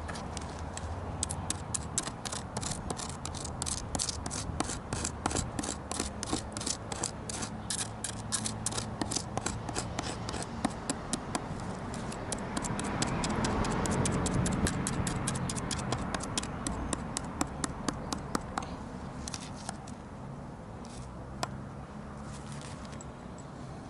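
Quick, regular scraping strokes of a hand carving tool on charred wood, gouging out the burnt layer; the strokes stop about three-quarters of the way through, leaving a few scattered scrapes.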